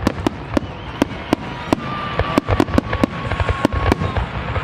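Fireworks display: rapid sharp cracks and pops from exploding shells, with a thin steady whistling tone through the middle.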